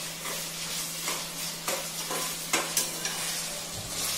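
Onions and ginger garlic paste sizzling in ghee in a pan, with a spoon scraping and knocking against the pan as it is stirred a few times.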